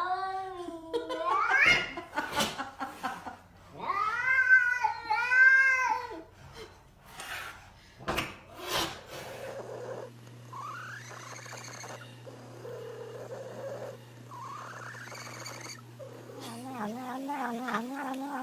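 A domestic cat making odd, drawn-out yowling calls: a call rising in pitch at the start, two arching, warbling calls a few seconds in, fainter calls later, and a trembling, wavering call near the end.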